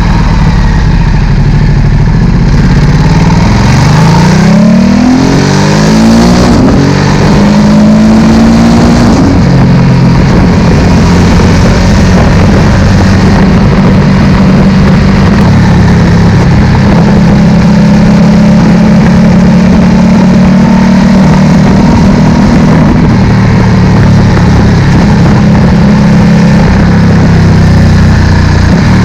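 Ducati Multistrada 1260's Testastretta V-twin engine through a Termignoni slip-on exhaust, climbing in revs for a few seconds and then holding a steady, loud note with small changes in pitch.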